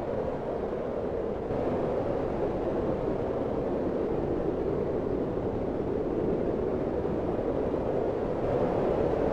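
Fireplace fire burning with a steady low rushing roar and no distinct crackles standing out; it grows a little louder about a second and a half in and again near the end.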